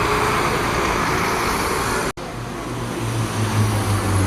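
Road traffic noise with vehicle engines running. It cuts out abruptly about two seconds in, then comes back with a stronger low engine hum.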